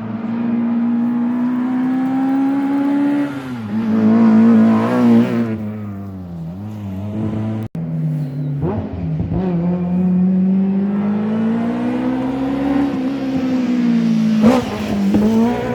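Historic rally car engines run hard at full throttle: the engine note climbs slowly through the revs, drops sharply at gear changes or lifts, then climbs again. An abrupt cut about halfway through leads into another stretch of engine at speed.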